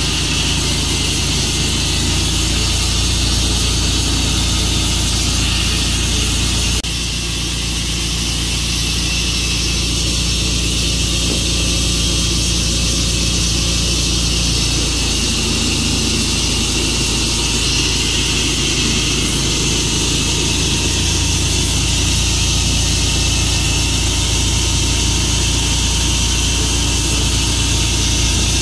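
Tru-Cut sawmill's engine running steadily under a strong, even high hiss. About seven seconds in, the sound steps slightly quieter and the low engine note changes.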